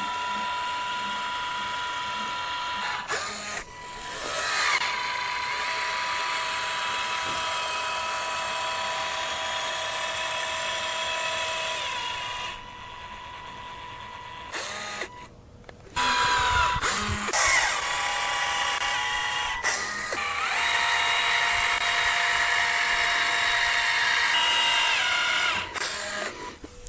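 Electric caulking gun whining steadily as its motor pushes out a bead of windshield urethane, the pitch shifting as it speeds up and slows. It stops for a few seconds about halfway through, then runs again.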